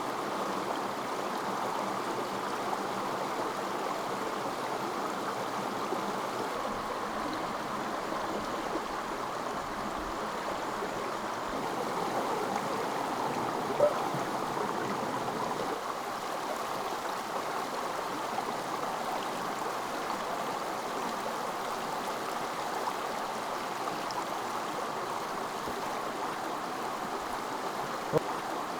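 A stream flowing steadily with an even rushing sound. A short knock comes about halfway through and another near the end.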